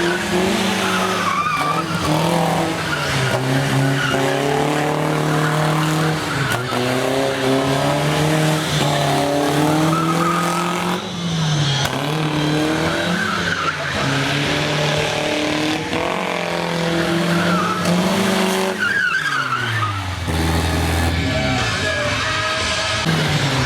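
Monster truck engine revving up and down again and again, with a long drop in pitch near the end as it comes off the throttle.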